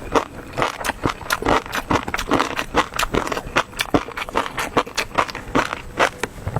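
Close-miked chewing and mouth sounds of a person eating, a dense run of quick, wet clicks and crackles, several a second.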